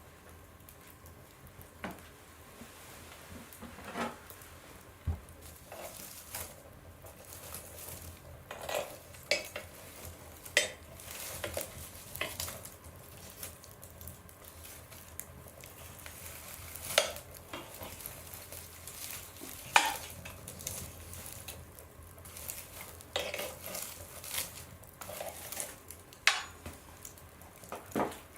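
Fire burning in an oven's firebox, crackling: sharp pops and snaps at irregular intervals over a soft steady hiss, with a few louder snaps among them.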